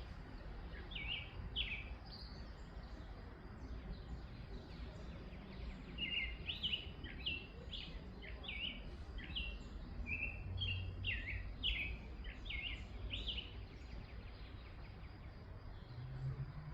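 Small birds chirping in short, repeated notes: a few about a second in, then a longer run from about six to thirteen seconds, over a steady low background rumble.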